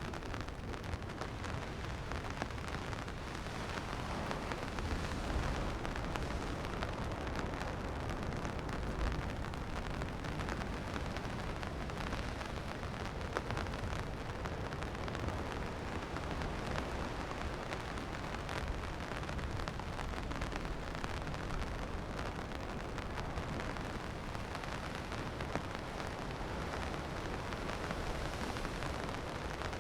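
Steady rain falling, with many small drop ticks over a constant low rumble.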